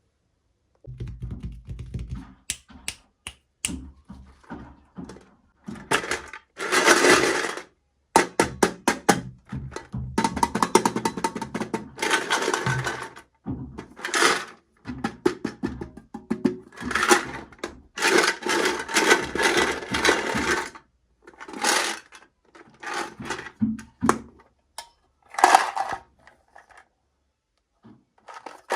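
Plastic toy packaging being crinkled and torn open, in irregular bursts with sharp clicks and small knocks of pieces being handled.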